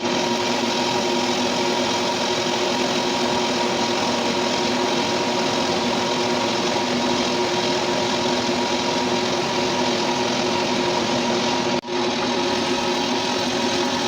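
A metal lathe running steadily, its motor and gearing giving a constant whirr with a steady hum. The sound drops out for an instant near the end.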